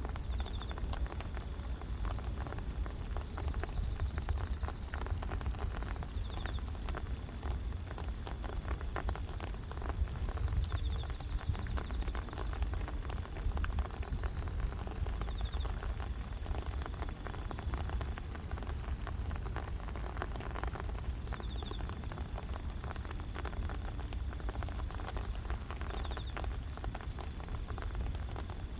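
Grass insects (crickets) chirping together: one keeps up a continuous high trill while another repeats a short pulsed chirp about once a second, over a low steady rumble.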